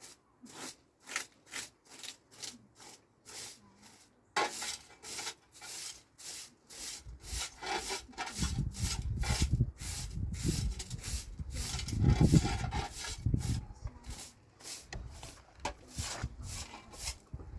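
Rhythmic rubbing or scraping strokes, about three a second, with a low rumble through the middle.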